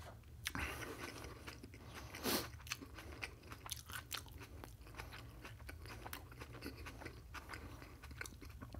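Close-miked chewing: a steady run of small crunches and wet mouth clicks, with one louder, longer sound a little over two seconds in.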